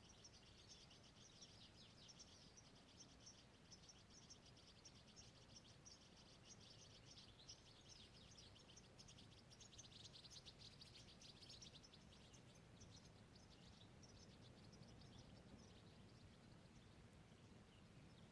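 Faint, rapid high-pitched chirping of small animals in a quiet natural soundscape, thinning out near the end.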